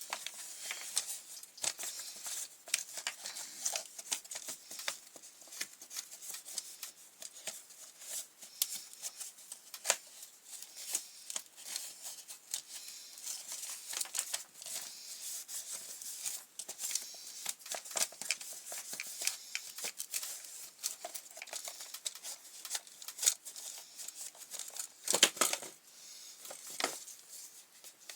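Hand cleaning of a grass trimmer's plastic pull-start housing: steady scraping, rubbing and many small clicks as the parts are scrubbed and handled, with a brief hiss near the end.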